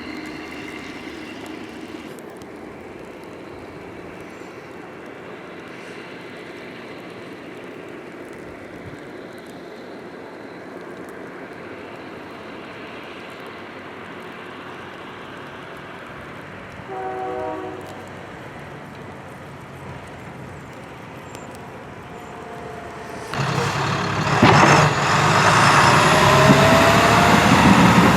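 Highway traffic passing slowly on a snowy interstate, a steady rush of tyres and engines. A short pitched tone sounds briefly about two-thirds of the way through, and near the end a heavy truck passes close and loud, its engine note rising.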